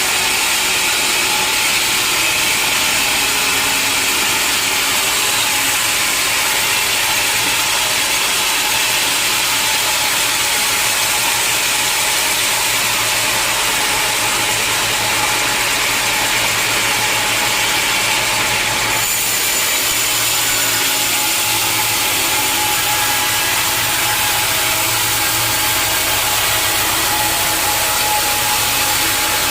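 Sawmill saw cutting through a log, with the machinery running steadily under a constant whine; about two-thirds of the way through the hiss thins and a thin high tone comes in.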